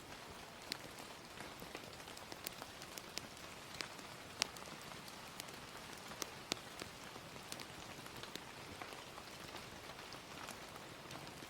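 Ambient mix of gentle, steady rain hiss with irregular sharp crackles and pops of a wood fire scattered through it.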